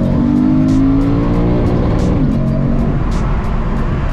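Lexus RC F's 5.0-litre V8 heard from inside the cabin, pulling under acceleration with its pitch held high, then dropping sharply about two seconds in and running on lower.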